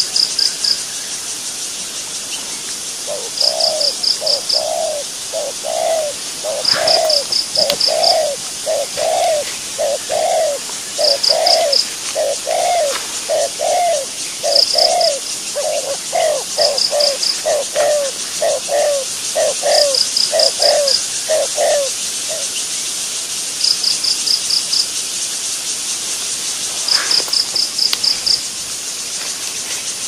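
A bird calling over and over in a long series of short low notes, about two a second, which stop about 22 seconds in. Behind it runs a steady high insect hiss, with a short high pulsed trill every few seconds.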